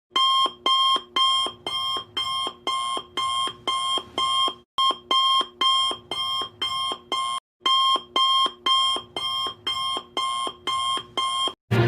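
Electronic alarm beeping steadily, about two beeps a second, with two short breaks; it stops just before the end.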